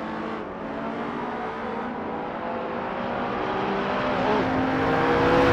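1966 Alfa Romeo Giulia Super with a modern Giulia Quadrifoglio 2.9-litre twin-turbo V6 accelerating. The engine note rises steadily in pitch and grows louder toward the end.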